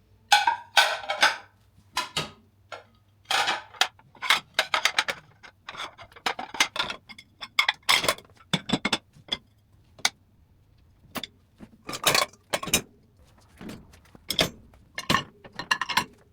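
Dishes, glasses and cutlery clinking and clattering in quick, irregular knocks as they are handled and stacked.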